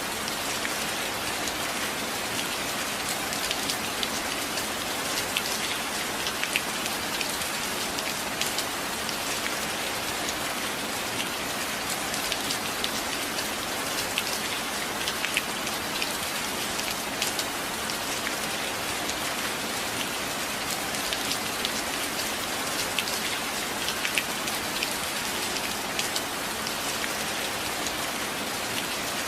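Steady rain falling, an even hiss dotted throughout with sharp taps of individual drops.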